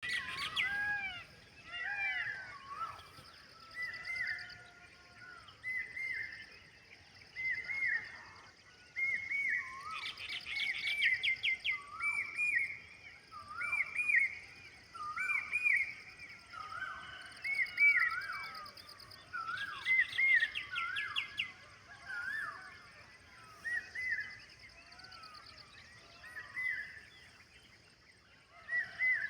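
Peafowl calling over and over: short arched calls about once a second, with other birds chirping rapidly twice and a steady high hiss behind.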